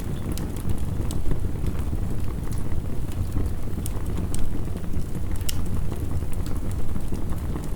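Wood fire crackling with sharp, irregular pops over a steady low rush of heavy rain.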